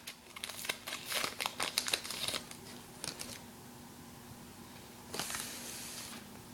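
Foil booster pack being torn open and its wrapper crinkled, a quick run of crackles at first, then a softer rustle of paper near the end.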